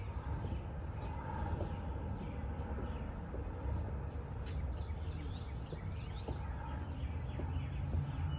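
Small birds chirping, scattered short chirps, over a steady low rumble.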